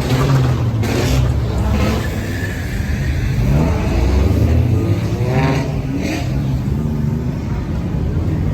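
Car engines running as cars pull away, with an engine revving up, its pitch rising, about three and a half seconds in and again around five seconds in.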